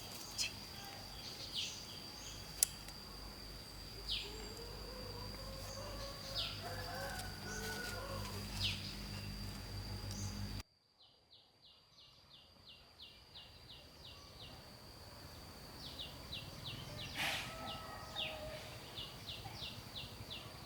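Outdoor rural ambience: birds chirping in short falling calls over a steady high-pitched drone. About halfway through the background drops off abruptly, and a fast run of short regular ticking calls follows.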